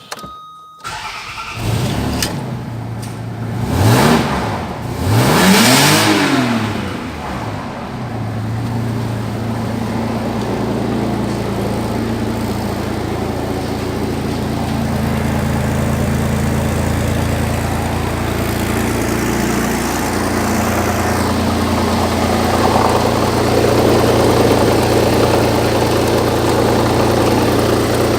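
Land Rover Freelander 2.5-litre KV6 V6 petrol engine starting about a second in and revved up and down twice, then settling to a steady idle.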